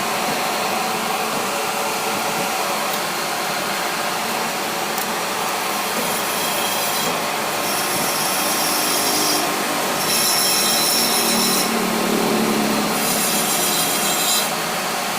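Steady rasping noise of a power tool or machine working on metal. In the second half a high-pitched squeal comes and goes in several stretches of one to two seconds.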